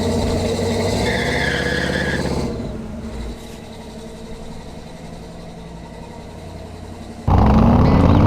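Chevrolet C10's 350 small-block V8 running at a steady idle, turning much quieter about two and a half seconds in. Near the end, loud music starts suddenly.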